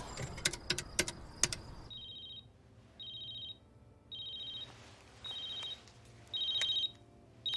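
A few sharp clicks, then a telephone's electronic ringing: short double-tone rings, about one a second, six in all.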